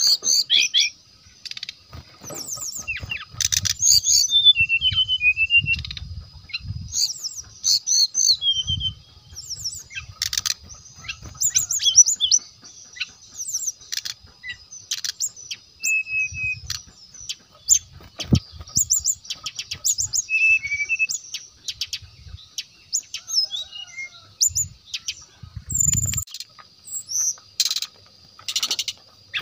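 Brown-chested jungle flycatcher (sikatan rimba dada coklat) singing a fast, varied run of short chirps, quick trills and brief clear whistles, almost without pause.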